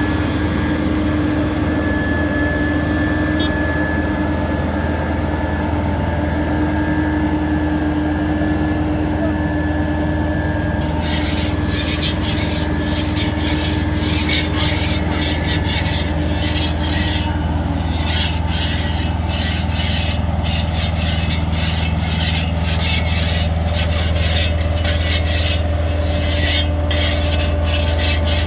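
Steady low drone of a heavy construction machine's diesel engine running. From about eleven seconds in, a quick, irregular run of gritty scraping, rasping sounds joins it.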